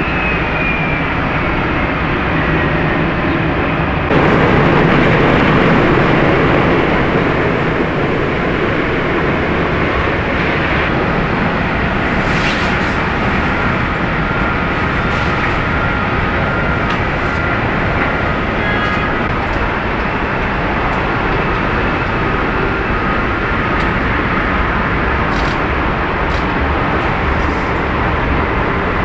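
Jet airliner engines running loudly and steadily, with a faint falling whine at the start. The noise jumps abruptly louder about four seconds in.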